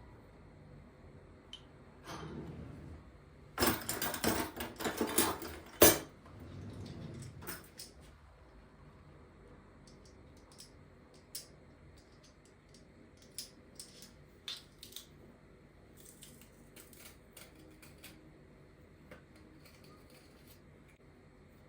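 Kitchen clatter of dishes and utensils being handled: a quick run of clinks and knocks about four to six seconds in, ending with one sharper knock, then occasional light clicks and taps.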